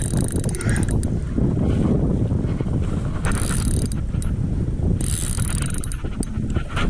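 Fishing reel under load from a bull redfish, its drag and gears clicking and whirring rapidly over a steady low rumble.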